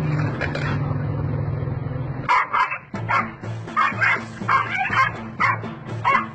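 A small dog, likely a puppy, yapping in a quick run of short, high yips, about two a second, starting about two seconds in. Background music plays underneath.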